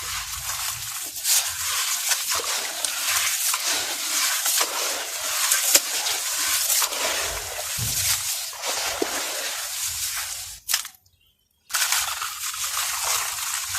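Brittle, dusty cast mug and bowl shapes crumbling and crunching apart: a dense run of crackles and small snaps. It cuts to silence for about a second, about three quarters of the way through, then resumes.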